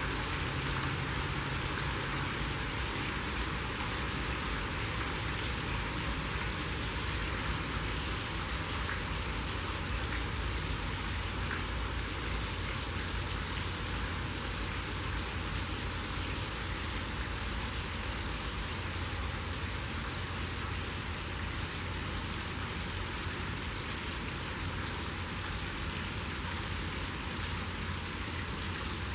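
Steady rain falling on a swimming pool's water and the wet concrete deck around it, many small drops striking without a break.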